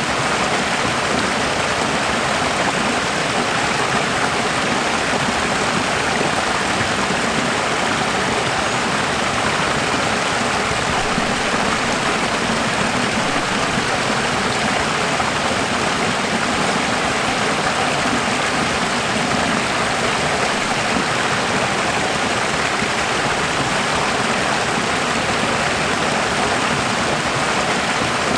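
Running water: a steady, even rush of water with no pauses or changes.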